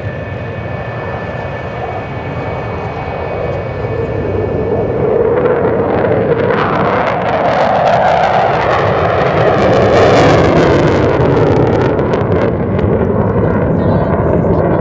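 Military aircraft engine noise: a steady high whine that fades out after a few seconds, then a broad roar that builds, loudest about ten seconds in, with a crackly edge.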